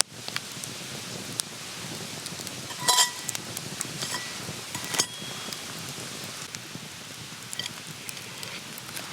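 Wood campfire crackling and popping steadily, with scattered sharp snaps. Metal cookware clinks twice with a short ring, about three and five seconds in.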